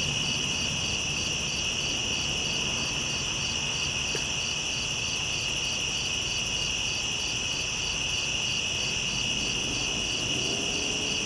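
Night chorus of crickets and other insects: a steady high chirring, overlaid with a pulsing trill repeating a few times a second.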